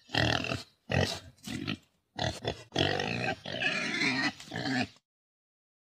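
Domestic pig grunting: several short calls, then a longer run of grunts from nearly three seconds in that stops about five seconds in.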